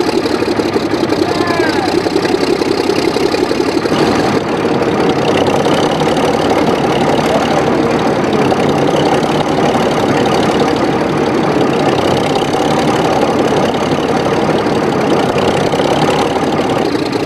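1955 John Fowler diesel shunter's Leyland six-cylinder diesel engine running steadily, freshly restarted after 15 years out of use. Its note shifts slightly about four seconds in.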